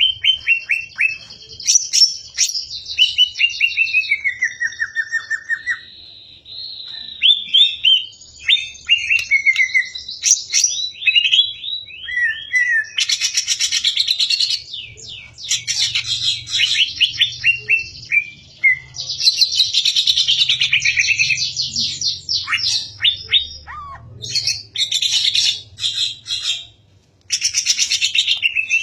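A pet songbird singing a loud, varied song: runs of falling whistled notes and quick series of downward-sweeping chips, broken by harsh, rapid rattling trills.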